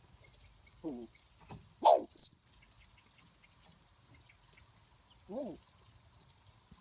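Steady high-pitched cricket chorus. About two seconds in comes a short, loud squeak that falls sharply in pitch.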